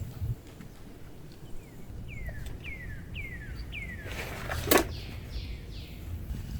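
A bird calling a series of four short descending whistles about half a second apart, then three fainter ones near the end. In the middle comes one sharp knock, the loudest sound, over a steady low rumble of wind.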